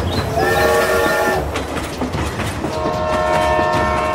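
Battery-powered toy steam locomotive running on plastic track, its sound unit giving a chord-like whistle held for about a second near the start and another held whistle tone starting a little past halfway, over a steady clicking of the wheels and motor.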